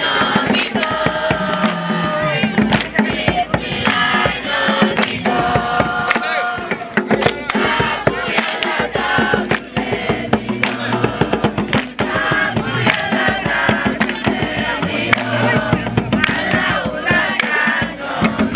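A crowd of young voices singing a chant together, with sharp percussive strikes throughout.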